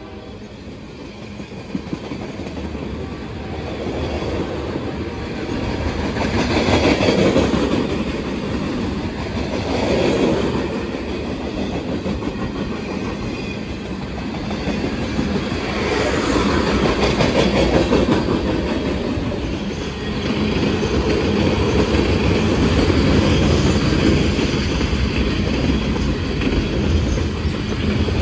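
Freight train rolling past, its steel wheels running on the rails. It grows louder over the first several seconds, then swells and eases in waves and stays loud.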